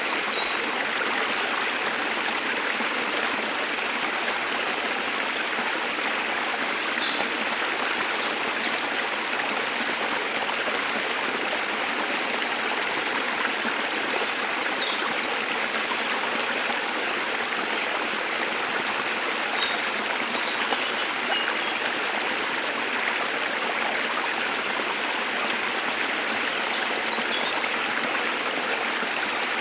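Waterfall water rushing in a steady, even wash, with a few faint, high bird chirps scattered over it.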